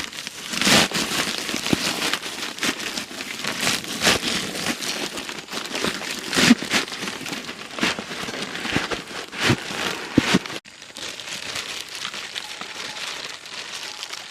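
Dense crackling and rustling noise, full of small sharp clicks, broken off abruptly about ten and a half seconds in and then continuing a little more evenly until it stops suddenly.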